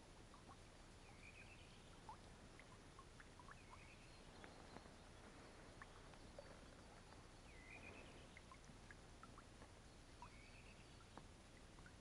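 Faint birdsong: one bird repeating a short phrase of a few quick notes about every three seconds, four times, over a low hiss with scattered faint clicks.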